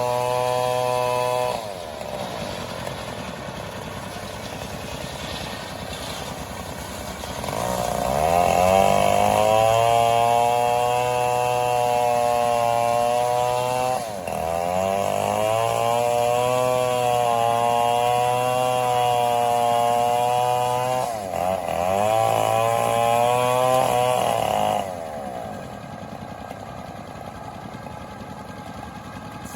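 Chainsaw engine run at high revs in several long bursts, each several seconds long, with the pitch sweeping up as the throttle opens and falling back between bursts. It drops to a steady idle about 25 seconds in.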